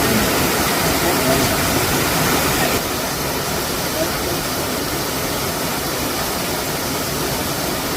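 Waterfall rushing as a steady, loud roar, with faint voices of people talking under it. The roar drops a little about three seconds in.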